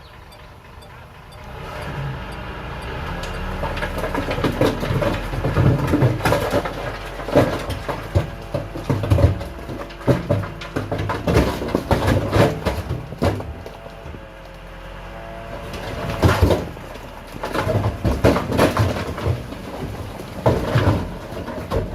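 Diesel engine of heavy earthmoving machinery working, rising in level after about a second and a half, with repeated clanks and knocks of metal and stone throughout. It eases off for a moment past the middle, then builds again.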